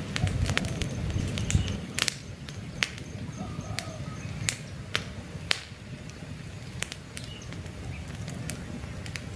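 Wood campfire crackling, with many sharp pops and snaps scattered through and a low rumble of flames that eases after about two seconds. Faint bird chirps sound in the background.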